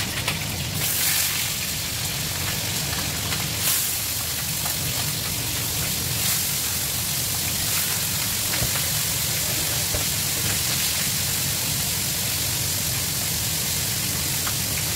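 Pieces of meat sizzling in hot oil in a frying pan, a steady hiss, with a couple of brief louder spurts in the first few seconds as more pieces go into the pan.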